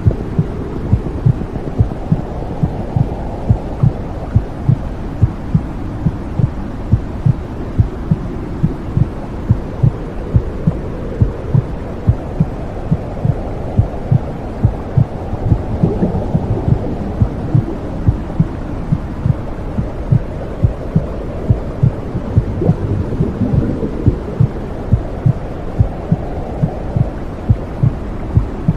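Womb-sound white noise: a steady, regular heartbeat thumping over a low, muffled whooshing rush that slowly swells and eases.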